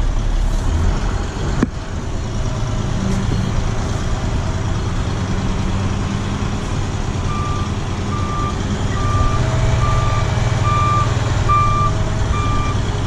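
A truck's diesel engine running steadily, then a reversing alarm starting a little over halfway through, beeping about three times every two seconds as the truck backs in.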